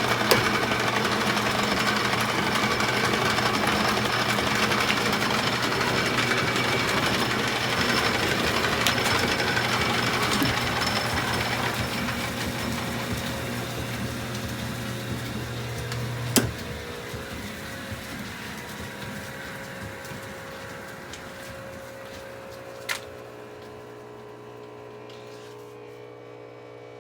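Metal lathe running steadily while turning a steel bar. About two-thirds of the way through there is a click, the motor hum stops, and the machine fades slowly as it winds down, with one more click later.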